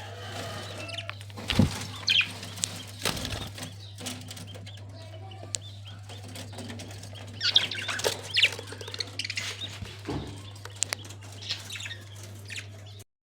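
Parrots stirring with wing flaps, a few sharp knocks and short high chirps, over a steady low hum.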